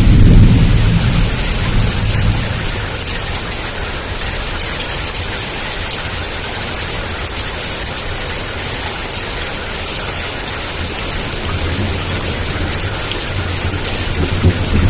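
Heavy rain pouring steadily. A low thunder rumble dies away over the first couple of seconds, and another low rumble builds near the end.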